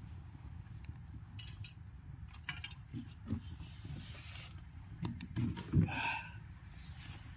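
Steady low rumble with scattered clicks and knocks of things being handled, and one short pitched call, like an animal's, about six seconds in.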